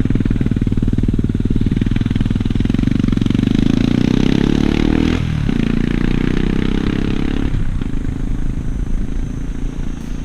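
Motorcycle engine running under load, its revs building, with two short breaks about five seconds in and near eight seconds as gears are changed, then easing off.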